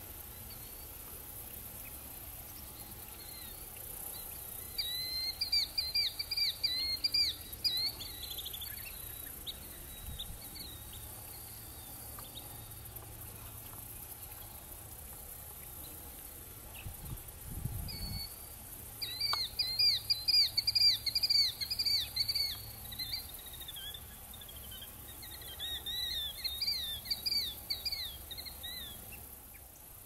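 A songbird singing three bouts of quick, repeated down-slurred high notes, over a steady faint high hiss of insects.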